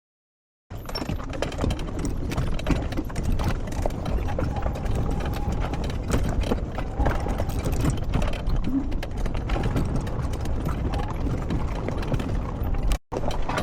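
Horse hooves clip-clopping over a steady low rumble of noise, with many short knocks; the sound drops out for a moment near the end.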